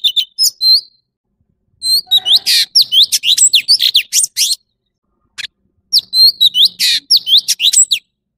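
Orange-bellied leafbird singing: fast strings of high, sweeping whistled notes in three bursts, with short pauses between them and a single note in the second pause.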